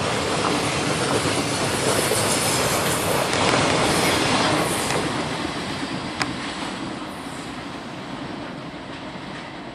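Container freight train's wagons rolling past, steel wheels running on the rails. The sound fades over the second half as the last wagon pulls away. One sharp click about six seconds in.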